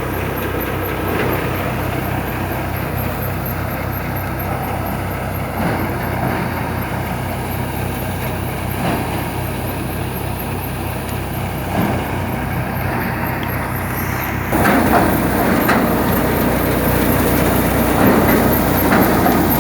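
New Holland tractor's diesel engine running steadily, growing louder about two-thirds of the way through.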